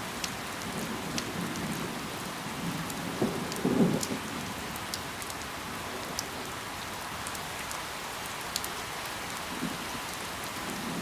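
Steady rain falling on leaves, an even hiss with scattered sharp drop ticks, and a brief low rumble a little under four seconds in.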